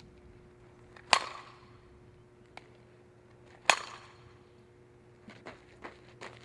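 Two sharp cracks of a softball being struck, about two and a half seconds apart, each with a short ringing tail. Quick light steps on the field follow near the end.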